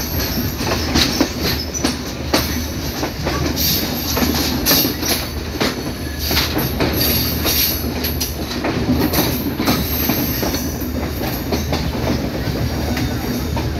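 Passenger train running on jointed track, heard from aboard: a steady low rumble with wheels clattering irregularly over the rail joints, and brief high wheel squeals now and then.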